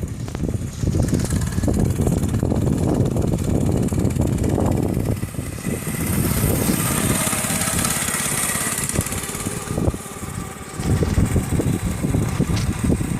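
Motorcycle engine running on the move, with a rough rush of wind noise over the microphone.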